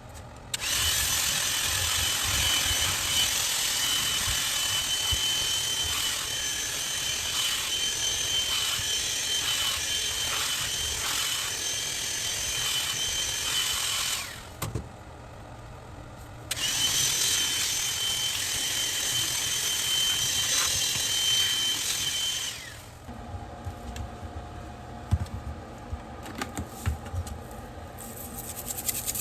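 BAUER 20V cordless hand vacuum running with a steady high-pitched whine. It is switched off for about two seconds partway through, then run again and switched off. After that, a fainter steady hum with scattered clicks is left.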